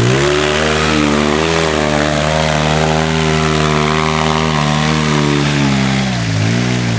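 Polaris RZR 800 side-by-side engine revving up and held at a steady high speed while climbing over rocks. Its pitch drops and rises again twice near the end.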